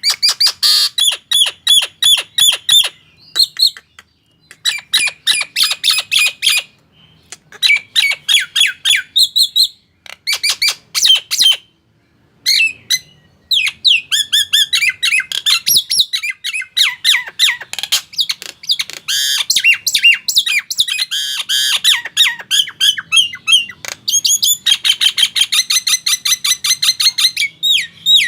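Nias hill myna in full song: loud phrases of rapid, repeated squawking and whistled notes, each a few seconds long with short pauses between, running almost without a break in the second half.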